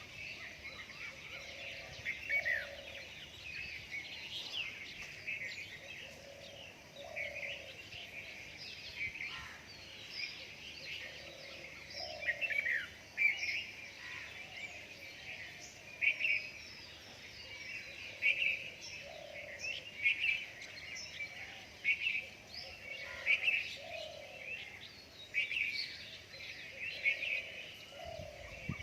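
Dawn chorus of several birds chirping and singing together, with a lower short call repeating every second or two beneath the higher chirps.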